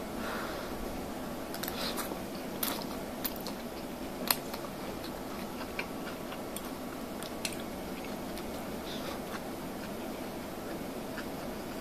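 A person eating pasta from a ceramic bowl with a fork: quiet chewing with scattered small clicks and taps, the sharpest about four seconds in, over a steady low background noise.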